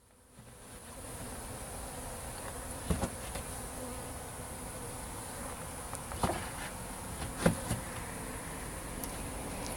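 A swarm of honeybees buzzing steadily around a newly filled hive, the hum building up over the first second. A few short knocks cut through it, about three, six and seven and a half seconds in.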